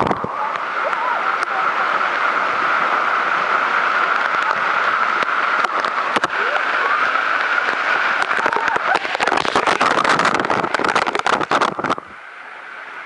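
Loud, steady rush of falling water from a cascade waterfall, with faint voices under it. From about eight seconds in, a dense crackle of clicks joins it, and the rush cuts off abruptly near the end.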